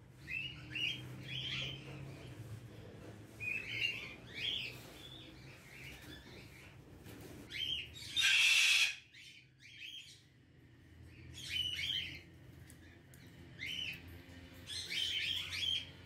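Caged birds chirping in short clusters of calls, with one loud harsh squawk about eight seconds in.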